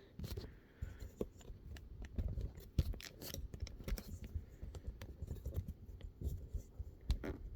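Hand handling of small metal fan parts: irregular light clicks, taps and scraping.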